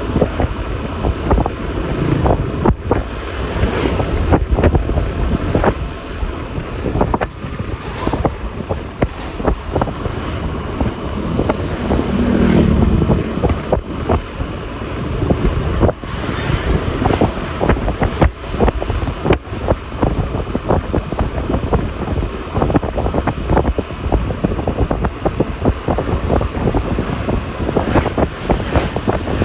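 Wind buffeting the microphone of a Yamaha Lexi LX 155 scooter on the move, over steady engine, tyre and traffic noise. A louder low rumble swells about twelve seconds in.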